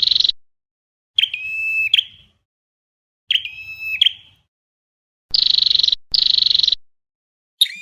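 A recording of flowerpecker calls played as a trapping lure. A buzzy call, then two whistled calls that each turn sharply upward at the end, then two buzzy calls back to back, with another whistled call starting near the end.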